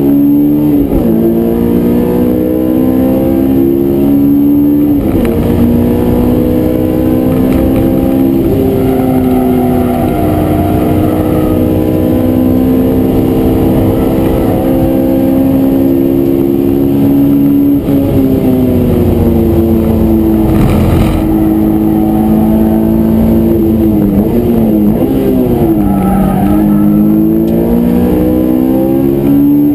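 Honda S2000's inline-four engine, heard from inside the cabin, pulling hard: its pitch climbs steadily and drops sharply at upshifts about one, five and eight seconds in. The note falls under braking near eighteen seconds, wavers through downshifts around twenty-five seconds, then climbs again.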